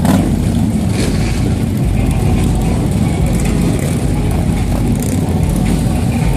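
Motorcycle engines running, loud and steady.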